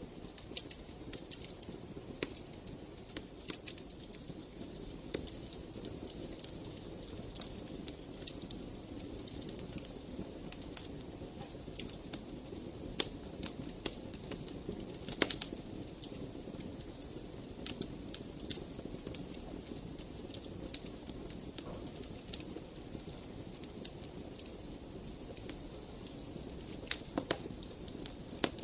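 Fireplace fire crackling: irregular sharp pops and snaps, a few louder ones, over a steady low rumble of the flames.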